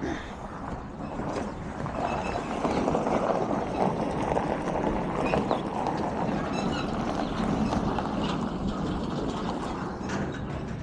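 A vehicle running and rattling as it moves, a steady rumbling noise that grows louder about two seconds in.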